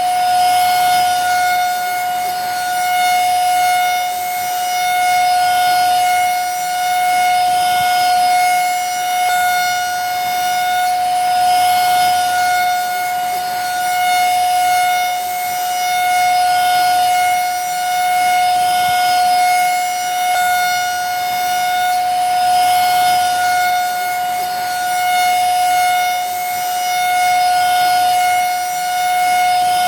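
Vacuum cleaner running steadily: a constant high motor whine over a hiss of rushing air, swelling slightly in loudness every two to three seconds.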